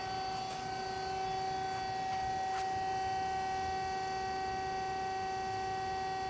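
Hydraulic aluminium-cutting circular saw machine running without cutting, a steady even whine that holds one pitch, with a few faint clicks.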